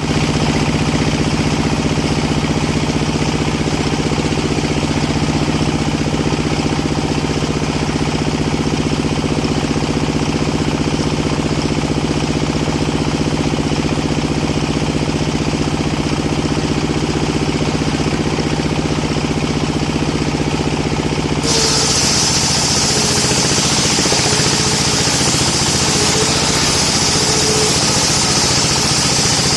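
Engine of a home-built circular sawmill running steadily. About twenty seconds in the sound changes abruptly, with a bright hiss joining the engine noise.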